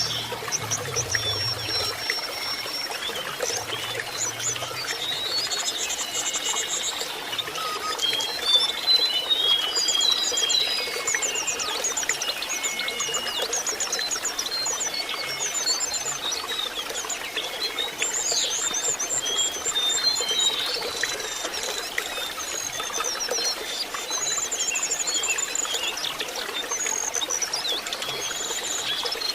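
Lesser shortwing song: a dense run of rapid, high chirps and fast trills. Steady trickling water runs underneath.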